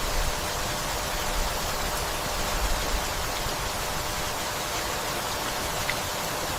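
Gentle rain falling steadily, an even hiss, with a few brief low rumbles underneath.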